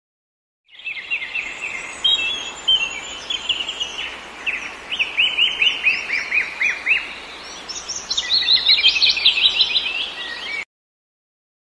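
Several birds chirping in rapid, overlapping series of short downward-sweeping notes over a faint hiss of forest background. The sound cuts in about a second in and cuts off suddenly about a second before the end.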